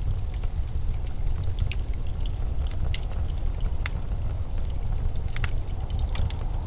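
Steady low rumble of blizzard wind with scattered sharp crackles and ticks.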